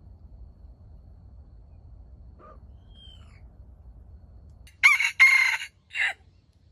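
Rooster crowing once, about five seconds in: a short, loud crow in several close parts ending with a brief final note.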